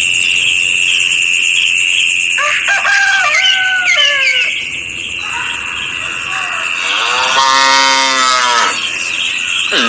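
Farm animal calls over a steady high-pitched whine: a few short gliding calls about two to four seconds in, then one longer, rising-and-falling call near the end.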